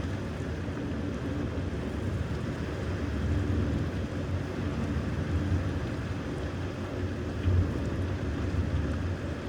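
Thunderstorm: a low rumble of thunder trailing off, over steady rain and wind noise, with a brief swell near the end.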